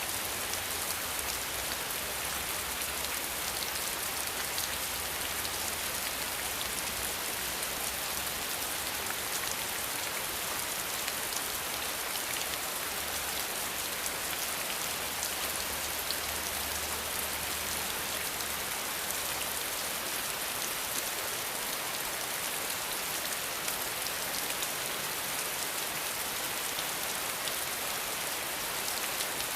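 Steady rain falling: an even hiss dotted with the fine patter of many individual drops.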